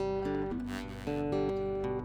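Acoustic guitar playing chords, with new notes sounding a few times a second.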